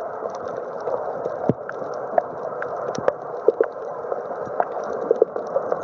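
Muffled, steady rushing water noise with scattered small clicks and pops, as picked up by a camera underwater.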